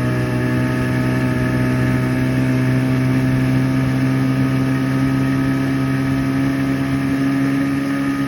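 Evinrude outboard motor running at high throttle, driving the boat under way, its pitch creeping up slightly as it holds speed.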